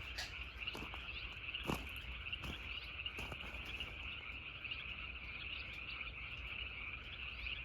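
A dense, steady chorus of many frogs calling together, with a few faint clicks.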